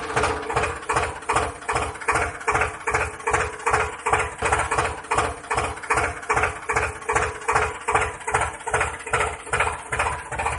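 An engine chugging at idle, an even beat of about three pulses a second over a steady hum.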